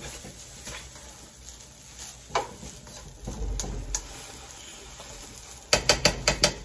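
Fried rice with pork tocino sizzling in a pan as it is stirred, with a few scattered clicks and a quick run of about six sharp knocks near the end.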